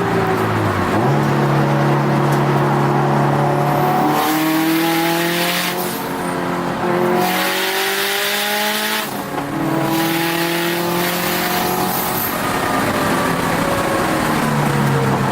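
Turbocharged Subaru WRX STi flat-four engine heard from inside the car on track. Its pitch drops sharply about a second in and then holds. It climbs from about four seconds, falls back around the middle as the level dips, then rises and falls again.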